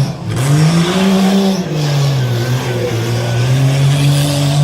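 Competition Jeep Cherokee's engine revving hard: its pitch climbs, dips for a moment, climbs again to a peak, falls back about a second and a half in, then holds fairly steady under throttle.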